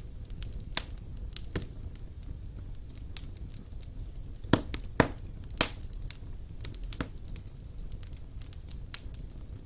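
Wood fire burning in a fireplace: irregular crackles and pops of the burning logs over a low steady rumble of the flames, with three louder pops in quick succession about halfway through.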